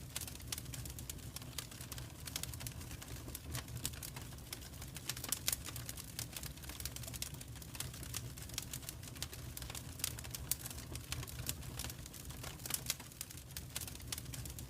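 Wood fire crackling in a fireplace: irregular sharp snaps and pops, a few of them louder, over a low steady rumble.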